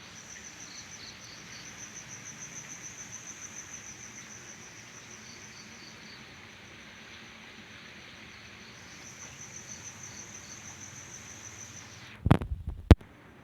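Crickets chirping in a fast, even, high-pitched pulse that fades for a few seconds midway and comes back. Two sharp knocks, the loudest sounds, come near the end.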